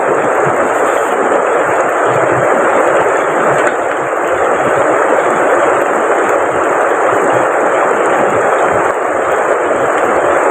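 Loud, steady rush of heavy rain pouring down, mixed with rushing river water.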